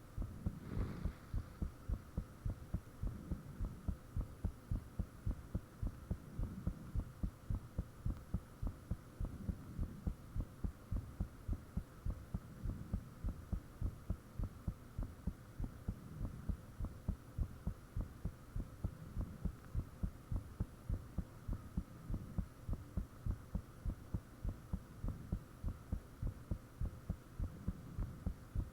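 A person's heartbeat picked up close to the body: steady, regular low thumps, several a second, over a faint steady hum. A brief rustle sounds about a second in.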